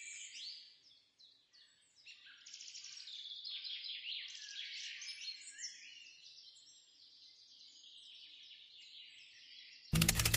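Faint birdsong: many small birds chirping and twittering in quick overlapping calls, busiest in the middle and thinning out later. A much louder sound cuts in abruptly near the end.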